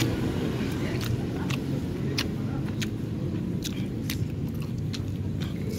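Someone chewing food with scattered small wet mouth clicks, over a steady low rumble of road traffic.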